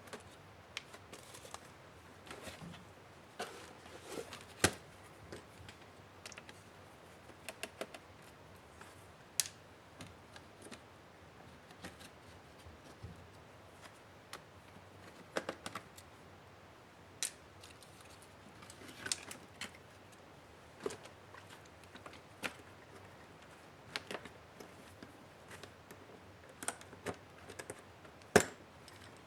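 Irregular clicks and taps of hand tools and plastic and metal laptop parts being handled during disassembly, with one sharper click near the end.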